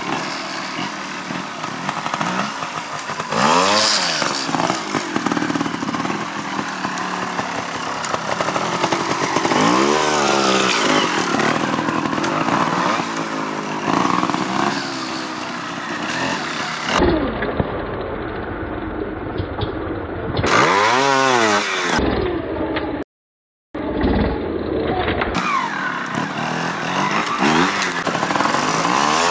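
Trials motorcycle engines revving up and down again and again as the bikes are ridden over obstacles. Two stretches sound duller, and the sound cuts out completely for a moment about two-thirds of the way through.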